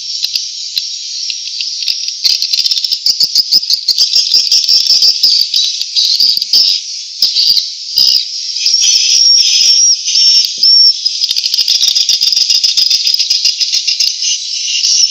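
Swiftlet chicks chirping and twittering in a dense, continuous high-pitched chorus full of rapid clicks, with a few short, steady high whistles in the middle.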